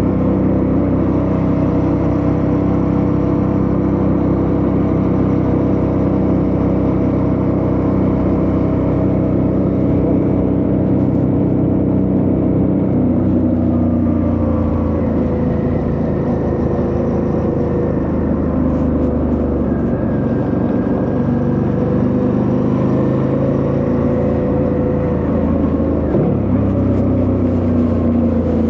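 Suzuki V-Strom 650's V-twin engine running while the motorcycle is ridden along a road. The engine note holds steady, dips in pitch about halfway through, then dips again briefly near the end.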